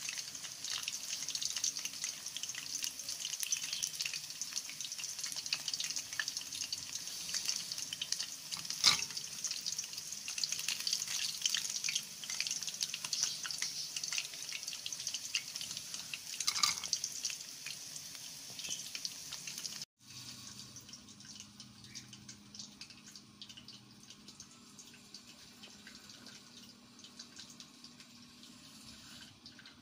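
Breaded chicken legs frying in a pan of hot oil: steady sizzling and crackling, with a sharp click about nine seconds in and another near seventeen seconds. About two-thirds of the way through, the sound cuts abruptly to a fainter sizzle.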